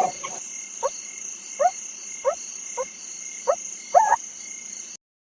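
A frog croaking, about six short rising calls spaced roughly half a second apart over a steady high-pitched background drone, cutting off abruptly near the end.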